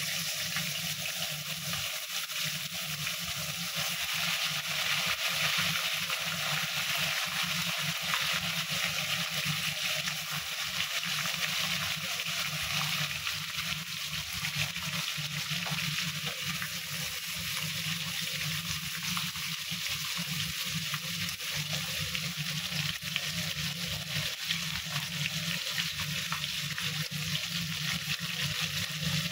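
Chicken legs frying in a pan: a steady, dense sizzle full of fine crackles and small pops, over a low steady hum.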